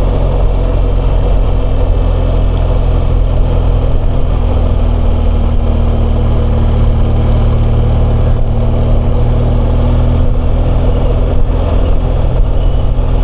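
BMW R1200GS flat-twin boxer engine running steadily while the motorcycle is ridden along.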